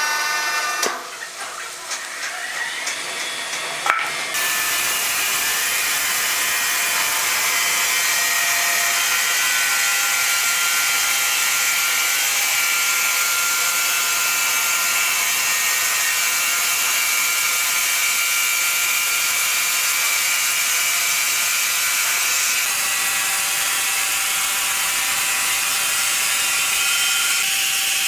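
Sawmill saw cutting through wood, a steady high-pitched whine and hiss that sets in about four seconds in and holds on.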